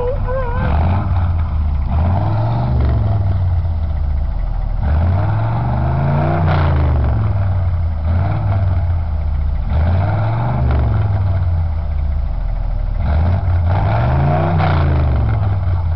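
1981 Ford F-150's 302 V8, fitted with headers and a dual exhaust, revved repeatedly from idle: about six or seven throttle blips, each rising and falling back, one held longer and higher near the middle.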